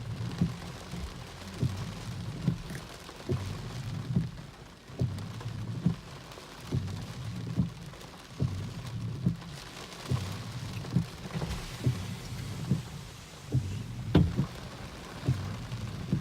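Strong gusty cold-front wind buffeting the microphone in irregular low rumbles, over a steady hiss that swells for a few seconds in the middle. There is a sharper gust about fourteen seconds in.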